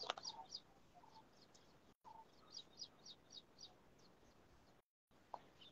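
Near silence with faint bird chirps, short high notes repeating irregularly, and the audio cutting out completely twice for a moment.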